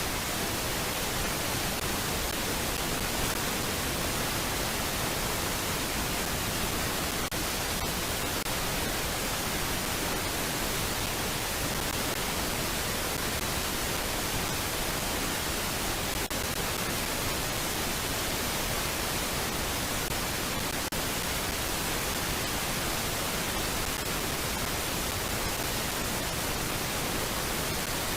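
Steady, even hiss like static, with a few faint clicks and no bird calls.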